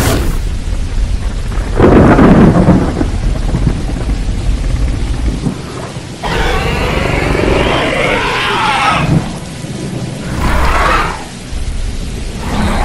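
A continuous low rumble with several louder rushing surges: a heavy one about two seconds in, a longer, brighter one from about six to nine seconds, and shorter ones near the end.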